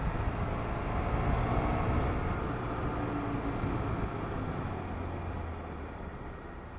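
BMW F800GS motorcycle's parallel-twin engine running steadily under way, with a steady rushing noise over it; the sound eases off and gets quieter in the last couple of seconds.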